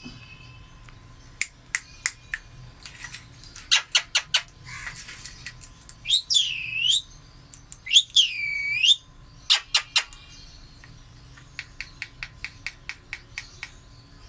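Pet green parrot calling: sharp short chirps, then two longer screeching calls a little apart in the middle, each dipping and rising in pitch, then a quick run of short chirps near the end.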